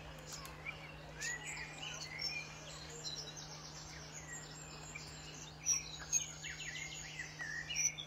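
Several wild birds chirping and calling, with short rising and falling notes and rapid trills about three seconds in and again near the end, over a steady low hum.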